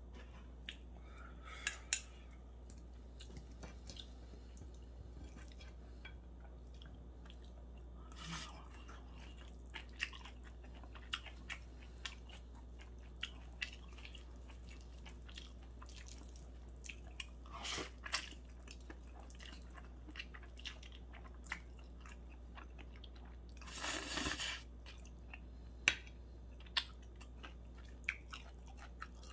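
Close-miked chewing of spicy stir-fried noodles and grilled rockfish, with scattered sharp clicks of a metal knife and fork against a ceramic plate. A few longer noisy sounds come about 8, 18 and 24 seconds in, over a steady low hum.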